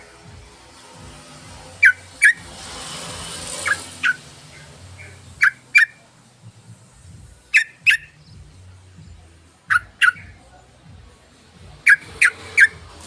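Yellow-vented bulbul calling: short, sharp notes that sweep upward, mostly in pairs repeated about every two seconds, with three close together near the end.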